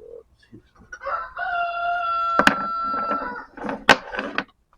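A rooster crowing once, a call of about two seconds held at a steady pitch. A sharp click sounds partway through the crow, and a few more clicks follow near the end.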